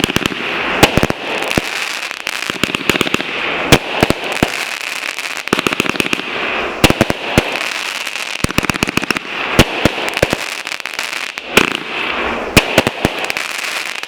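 Consumer fireworks going off in rapid succession: a long, irregular run of sharp bangs over continuous crackling, with no let-up, loud like gunshots.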